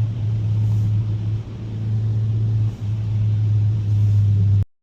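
Inside the cabin of a 2021 Mazda 3 Turbo AWD at speed: a steady low drone of engine and road noise. The sound drops out abruptly for a moment near the end.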